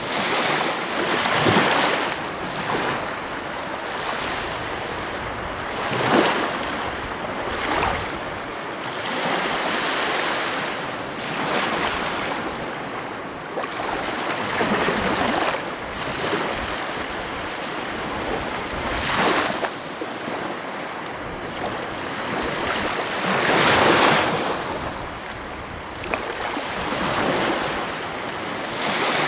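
Heavy ocean waves breaking on the shore, a continuous surf wash rising into a crash every few seconds, the biggest near the end. Some wind noise on the microphone.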